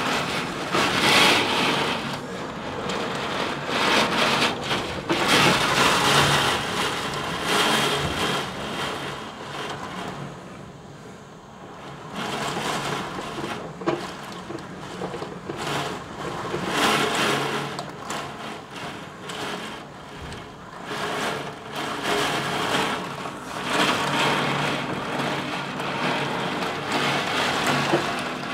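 Wind-driven heavy rain in a thunderstorm: a dense rushing noise that swells and eases in gusts every few seconds, dropping to a lull around ten seconds in before building again.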